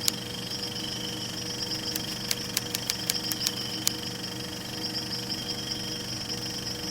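Wood fire in a fire pit crackling, with irregular sharp pops, over a steady hum with a high whine.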